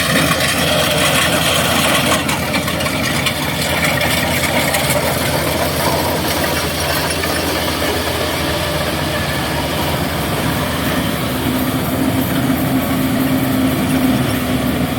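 Heavy diesel machinery engine running steadily at a constant speed, with a low hum coming in about two thirds of the way through.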